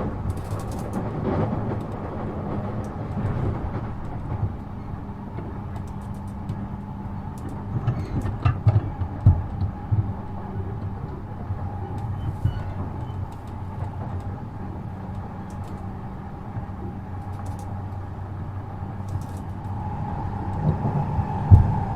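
Running sound inside a JR East E233-7000 series electric train in motion: a steady rumble of wheels on rail with a steady hum and faint whine. A cluster of wheel thumps, like wheels passing over rail joints, comes about eight seconds in.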